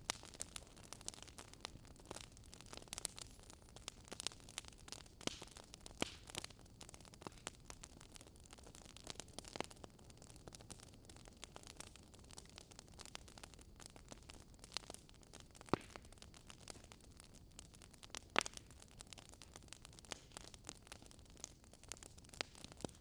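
Wood fire crackling: irregular sharp pops and snaps of varying strength over a steady low hiss.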